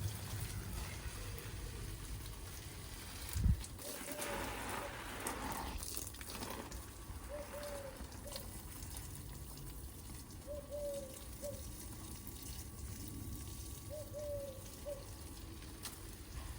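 A bird gives short low hooting phrases of two or three notes, repeated about every three and a half seconds, over steady outdoor background noise. There is a brief rushing, water-like noise about four to six seconds in and a single thump about three and a half seconds in.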